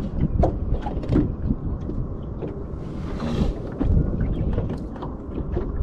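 Wind buffeting the microphone in an open fishing boat, a rough low rumble. Scattered small clicks and knocks run through it, with a brief gust of hiss about three seconds in.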